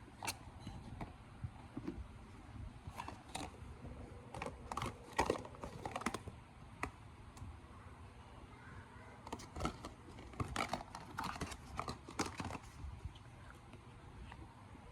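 Irregular light clicks and taps in clusters, the sound of a small object being handled.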